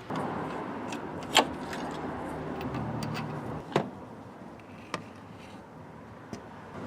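Handling noise and sharp metal clicks as the cover over the Cummins diesel's timing gears is worked off: a stretch of rustling and scraping, then quieter, with a few sharp clicks spread through.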